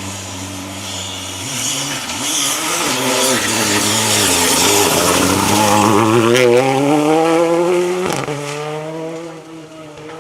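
Rally car engine revving hard on a stage, its pitch wavering and rising as it comes closer, loudest about six to seven seconds in. It cuts sharply about eight seconds in, then runs on lower and fades as the car moves away.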